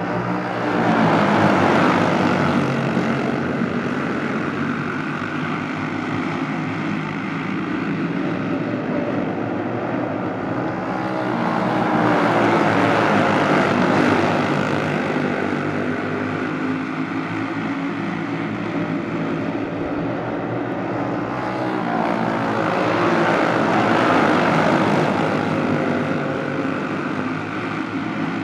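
A pack of racing karts with Briggs & Stratton Animal single-cylinder four-stroke engines running lap after lap. The engines swell and fade about every eleven seconds as the pack passes.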